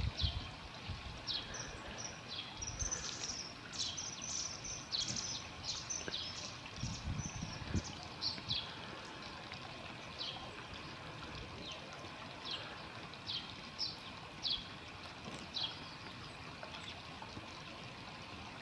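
Bird calls: many short, high-pitched notes repeating about twice a second, thick for the first half and sparser later.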